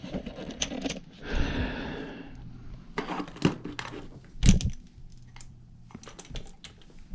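Tools and small hard parts clicking, clinking and knocking as someone rummages through them. A rustle comes about a second in, and the loudest knock about four and a half seconds in.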